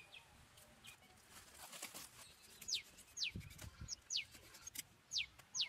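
A bird giving a series of five or six short, high chirps, each sweeping sharply downward in pitch, spaced unevenly through the second half. A brief low thud comes about midway.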